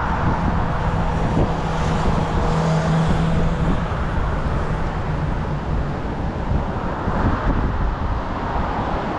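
Motor vehicle road noise: a steady low rumble, with one engine's hum swelling and then fading between about two and four seconds in.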